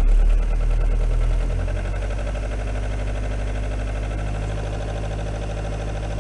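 Renault 21 turbo diesel engine running, its level easing down over the first two seconds and then idling steadily. The owner is trying to diagnose a knock from this engine on gentle acceleration that mechanics have not found; it is not a connecting rod or bearing.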